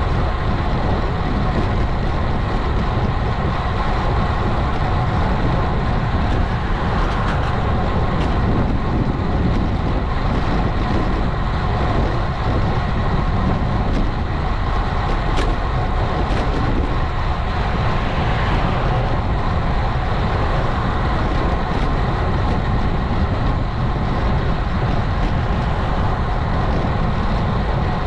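Steady wind rumble on an action-camera microphone with road and tyre noise from a road bike riding along, holding at the same level throughout.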